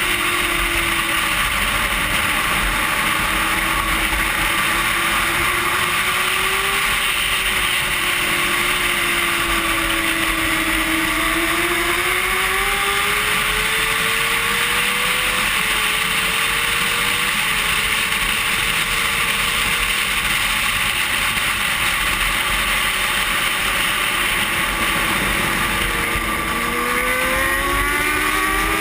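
Onboard sound of a racing motorcycle at race pace: a constant rush of wind over the microphone with the engine note rising and falling as the rider works the throttle, climbing steeply near the end.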